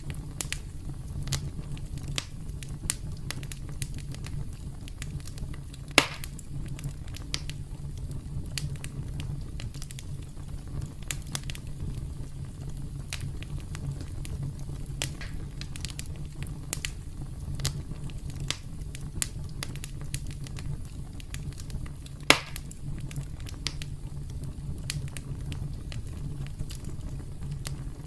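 Campfire crackling: a steady low rumble of burning with frequent sharp crackles and two louder pops, about six seconds in and near twenty-two seconds.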